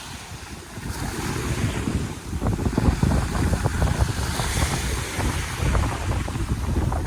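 Wind buffeting the microphone in uneven gusts, over the wash of sea waves.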